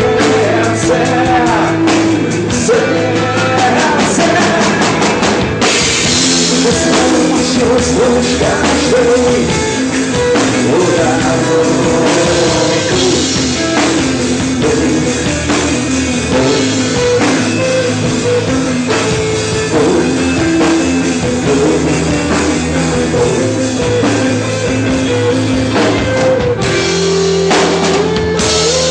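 Rock band playing with a drum kit, the music loud and steady. The cymbals and drums fill out about six seconds in, and there is a short break near the end.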